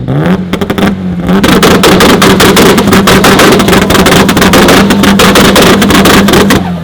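A car engine revved up about a second in and held at steady high revs for about five seconds, with a dense crackle from the exhaust, then let back down near the end. Very loud.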